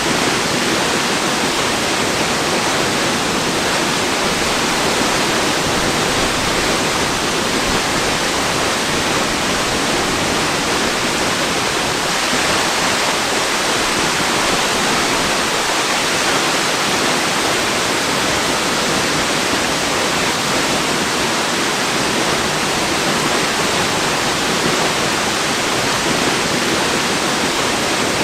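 Waterfall: a steady, unbroken rush of falling water, even and hiss-like with no changes.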